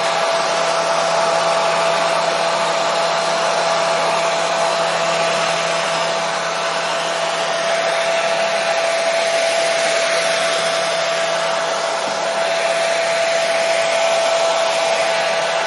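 Hair dryer running steadily: a constant rushing blow with a steady motor whine, used as white noise to settle a baby.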